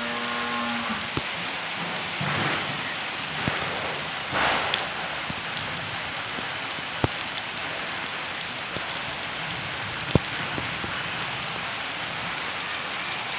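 Steady rain falling on garden trees and lawn, with two brief louder swells of rain noise a few seconds in and a couple of sharp ticks later on.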